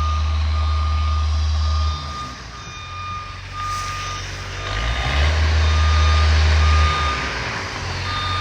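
Backup alarm of a construction machine beeping over and over, with the machine's diesel engine running underneath, working harder for the first couple of seconds and again from about five to seven seconds in.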